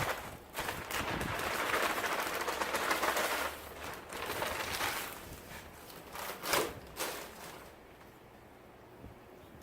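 Rustling and scraping of potting soil and compost being stirred and handled, in uneven bursts with two sharper scrapes late on, then dying down.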